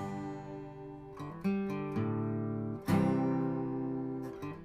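Acoustic guitar strumming chords, each chord ringing out and fading before the next strum.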